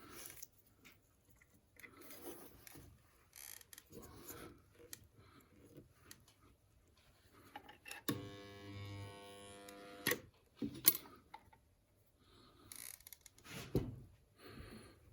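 Small scattered handling noises, then about eight seconds in a resistance spot welder's transformer buzzes steadily for about two seconds as it tacks a starter brush lead to its contact, followed by two sharp clicks.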